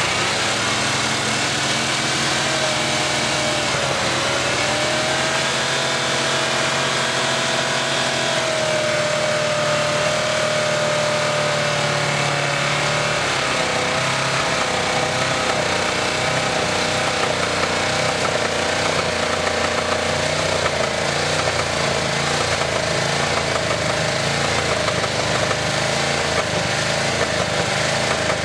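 Car engine running steadily under heavy throttle, kept going after silicone was added to its oil to try to kill it, with a wavering whine over the rumble. The low rumble changes character about halfway through.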